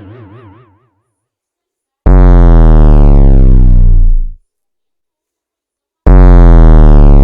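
Electronic synthesized sound effects: a warbling tone fading out in the first second, then a very loud, buzzy, low tone whose upper overtones slide downward, lasting about two seconds and cutting off. After a gap of about two seconds the same tone starts again near the end.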